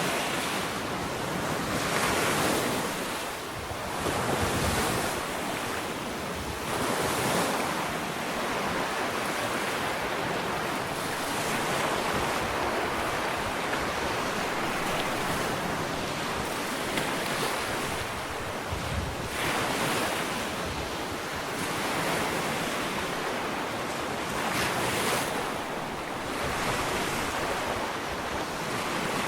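Ocean waves washing onto a sandy beach, a continuous wash of surf that swells and eases every few seconds as each wave breaks and runs up the shore.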